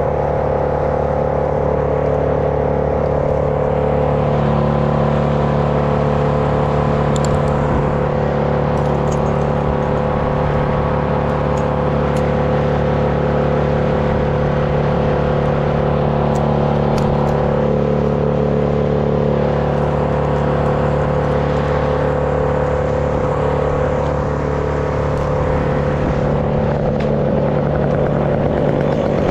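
Stihl 201 two-stroke top-handle chainsaw idling steadily.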